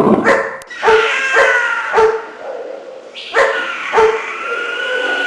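Dog barking repeatedly, about six sharp barks in two groups, followed by a longer drawn-out note near the end.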